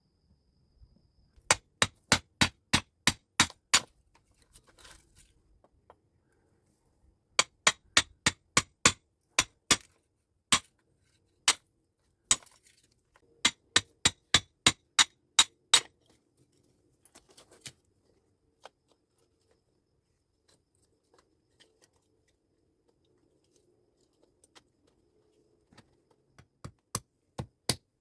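Hammer blows with a bright metallic ring, in quick runs of about nine strikes at roughly four a second, separated by pauses.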